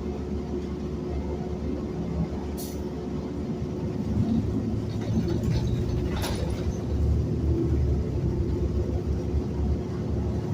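City bus running along the road, a steady engine and road rumble with a constant hum that grows somewhat louder about four seconds in. Two short sharp high sounds cut through, one about two and a half seconds in and one about six seconds in.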